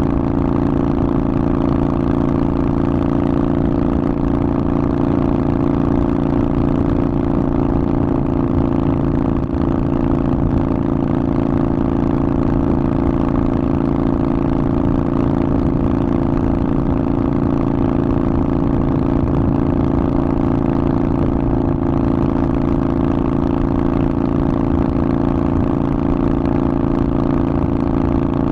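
Harley-Davidson Forty-Eight's 1200 cc air-cooled V-twin running at a steady engine speed through a Vance & Hines aftermarket exhaust, the note holding even with no revving.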